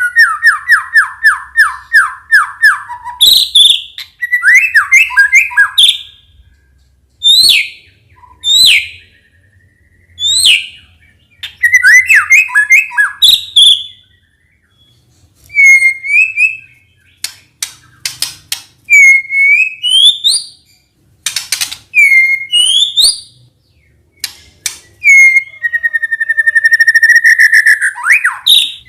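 White-rumped shama (murai batu) singing a loud, varied song: a quick falling run of notes at the start, then sharp sweeping notes and rising slurred whistles in short phrases with brief pauses, and a longer held whistle near the end.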